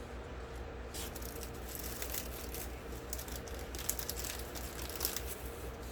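Plastic packaging crinkling and rustling as it is handled, starting about a second in and continuing in irregular crackles.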